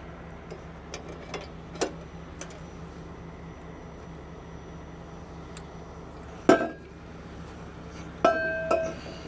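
Metal parts knocking and clanking: a few light clicks, a loud bang about six and a half seconds in, and a ringing clang a little after eight seconds. Under them runs the steady hum of an idling engine.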